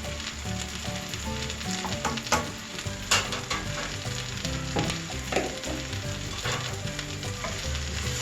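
Japchae stir-frying in a hot oiled pan: a steady sizzle as the glass noodles and vegetables are stirred and tossed, with a few sharp knocks against the pan.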